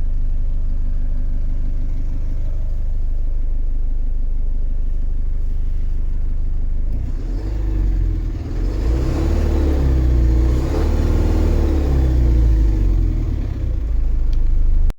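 IVECO Eurocargo 120E19 truck's diesel engine idling steadily, then revved up and down several times from about seven seconds in.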